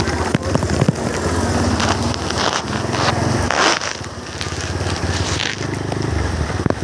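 Motorcycle engine running at a steady, pulsing beat while riding through heavy rain, with rain hiss and raindrops crackling as they hit the microphone.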